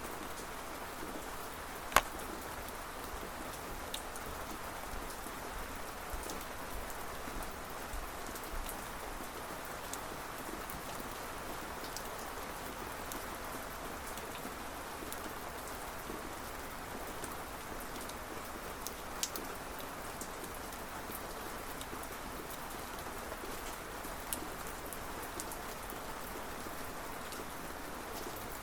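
Steady rain falling, with scattered individual drops ticking sharply over it; one drop lands loudly about two seconds in.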